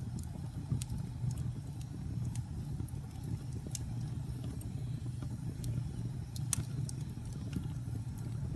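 Wood fire burning in a fireplace: a steady low roar of flames with scattered sharp crackles and pops, one louder pop about six and a half seconds in.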